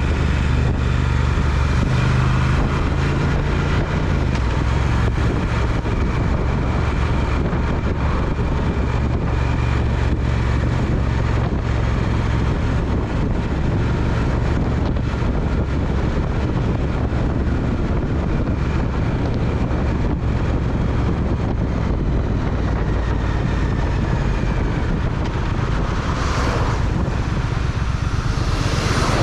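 Triumph Speed Twin's parallel-twin engine running steadily under way, with wind buffeting the microphone and road noise. The engine pitch shifts in the first few seconds, and there is a brief whoosh near the end.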